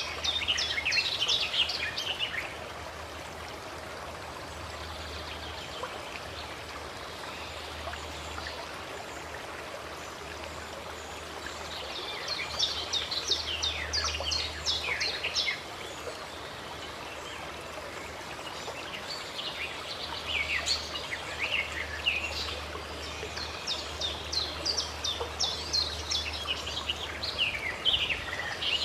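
Steady rushing of a stream, with bursts of bird song, quick falling chirps, in several phrases: one at the start, one about twelve seconds in, and more through the second half.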